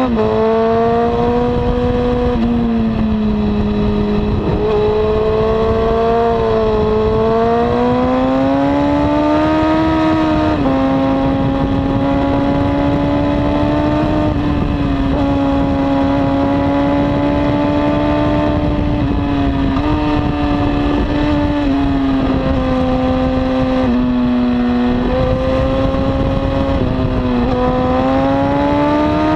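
2002 Honda CBR954RR's inline-four engine with a slip-on exhaust, running hard at high revs, its pitch rising and dipping several times as the throttle and gears change. A steady rush of wind noise runs under it.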